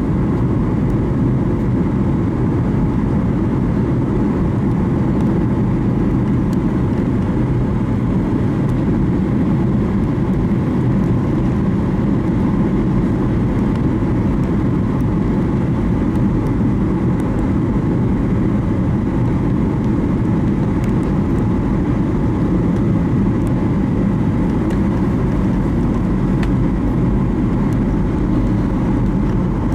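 Airliner cabin noise in flight: a steady, deep rumble of engines and airflow with faint steady tones above it.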